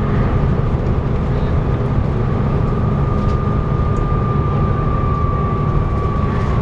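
Volvo B7TL double-decker bus's six-cylinder diesel engine running under way, heard from on board: a steady low rumble with a thin, steady high whine over it that strengthens around the middle and sags slightly in pitch towards the end.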